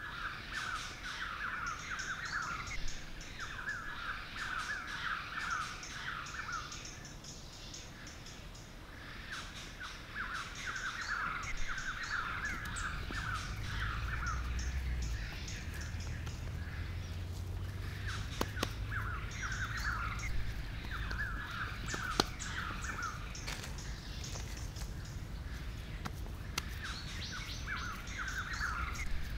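Birds calling in repeated bursts of rapid notes, a phrase of a second or two every few seconds, with a low rumble around the middle and a couple of sharp clicks.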